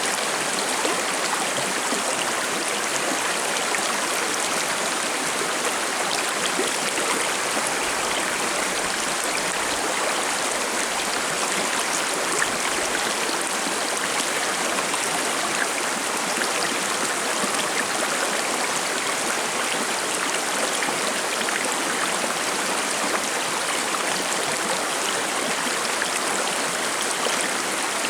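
Shallow forest river stream babbling and trickling over rocks: a steady, even rush of running water with small splashes.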